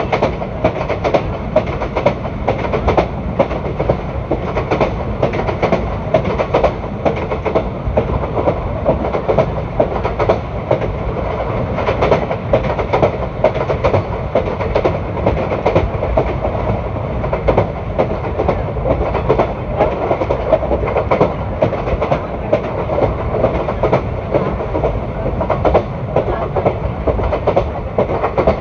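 Indian Railways ICF passenger coaches running on the track: a steady rumble of wheels on rail, broken by frequent clicks as the wheels pass over rail joints.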